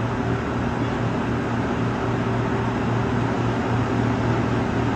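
Steady low mechanical hum with a constant rushing noise behind it, unchanging throughout.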